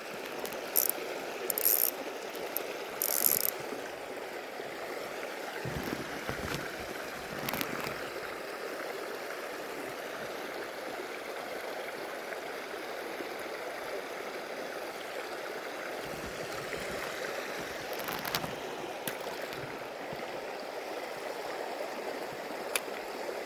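Stream water flowing steadily over rocks, with a few short bursts of fishing-reel clicking in the first few seconds.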